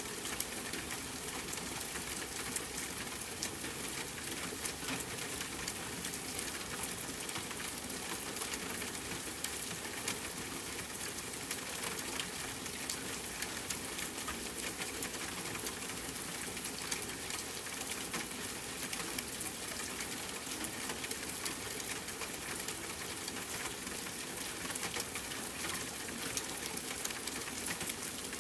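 Steady rainfall, a continuous hiss dotted with many small, sharp drop ticks.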